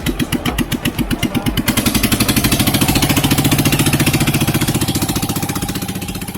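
Small motorboat engine running with a fast, even putter. It grows louder and its pulses quicken toward the middle, then it fades away near the end.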